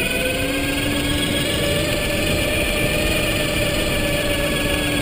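Electric mountain bike's motor whining steadily under way, its pitch climbing slightly in the first second and then holding, over a steady rushing noise of riding.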